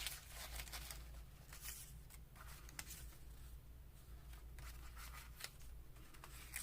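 Faint, intermittent rustling and light taps of paper cutouts being handled and shuffled.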